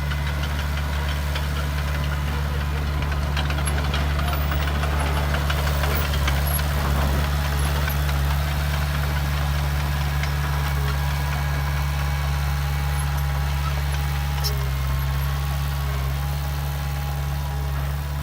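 Diesel engine of a heavy earthmoving machine running steadily at a constant speed.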